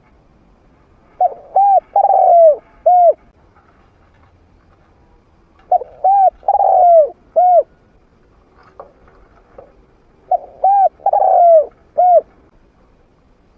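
A trained male spotted dove cooing in three phrases about four seconds apart. Each phrase has four notes, and the third note is the longest and falls away at its end. It is the territorial call that is played to draw wild doves in to fight.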